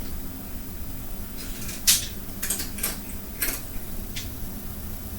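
A handful of light clicks and knocks, the loudest about two seconds in, over a steady low hum of room tone.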